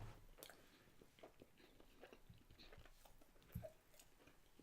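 Faint chewing, close to near silence: a person eating, with soft scattered mouth clicks and one slightly louder bite about three and a half seconds in.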